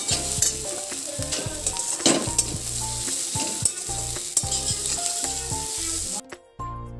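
Spice paste frying in mustard oil in a metal wok: a steady sizzle with repeated scrapes of the spatula stirring it against the pan, while the masala is fried down. The sizzle cuts out abruptly just before the end.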